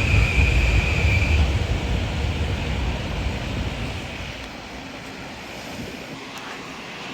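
Gusty wind buffeting the microphone, a heavy low rumble that eases after about four seconds. A steady high whine, likely from a train, fades out about a second and a half in.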